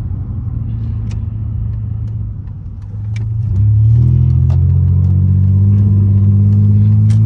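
Muffler-deleted exhaust of a 2002 Pontiac Grand Prix GT's 3.8-litre V6 droning low as the car drives. About three and a half seconds in it gets much louder under throttle, then holds a steady deep drone until near the end.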